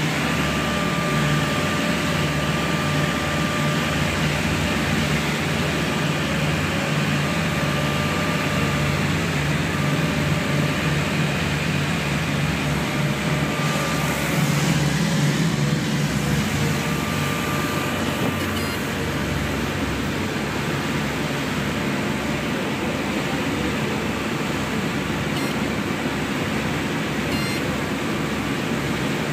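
Steady engine and propeller drone of a light twin-engine airplane, heard inside the cabin, with a faint steady whine above the low hum.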